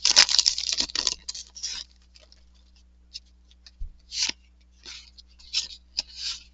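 Paper-foil wrapper of a sports card pack crinkling and tearing open for about two seconds, then a few short swishes and ticks as the cards are slid and flicked through by hand.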